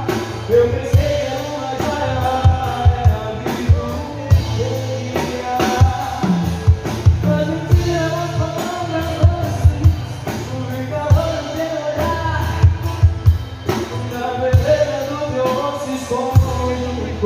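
Live sertanejo music: a singer over a band with a steady drum beat.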